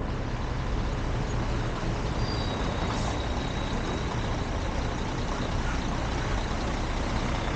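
Heavy road-repair vehicles running steadily, a constant low diesel rumble with a faint thin whine joining about two seconds in.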